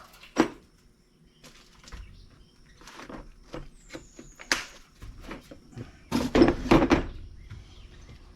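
Metal tools and brake caliper parts being handled: scattered clicks and knocks, with a louder cluster of clattering about six seconds in. A faint high chirp sounds about four seconds in.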